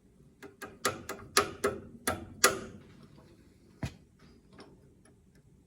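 Rapid sharp metal clicks and knocks of a hand tool working at a rusted, seized cotter pin in a steering joint: about eight in quick succession, then a single louder knock a second later and a few faint ticks.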